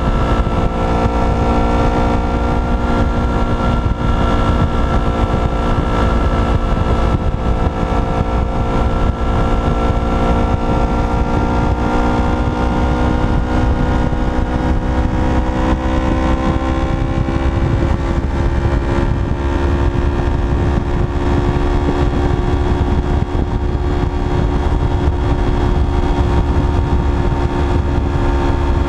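Yamaha MT-03 motorcycle engine running steadily at highway speed. Its note drifts slightly lower, then climbs slowly from about halfway as the bike speeds up, over heavy wind rumble on the handlebar-mounted microphone.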